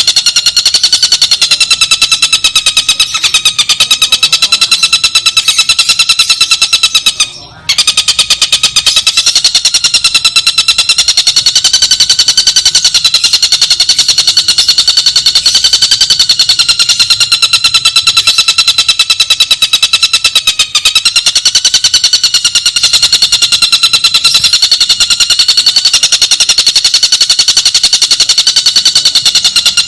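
Tengkek buto bird calling in a fast, steady, nearly unbroken rattling trill of rapid ticking notes, breaking off briefly about seven seconds in.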